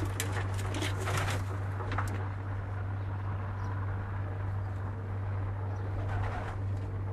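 Domestic pigeons cooing, with a few short clicks and rustles in the first couple of seconds, over a steady low hum.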